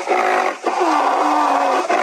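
An animal calling: two pitched, drawn-out calls, the first breaking off about half a second in and the second running on for over a second.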